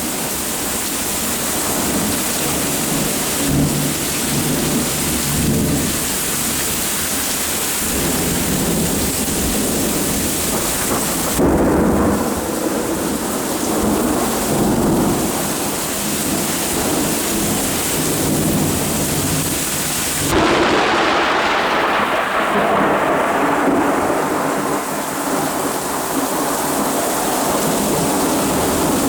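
Steady rain during a thunderstorm with rumbling thunder, swelling suddenly louder twice, about 11 seconds in and again about 20 seconds in.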